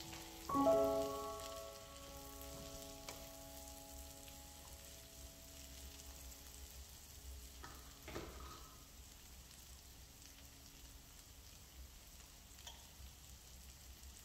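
Mushrooms, green pepper, spring onion and garlic sizzling softly as they fry in oil in a nonstick pan. A few sustained background music notes ring out near the start and fade over several seconds.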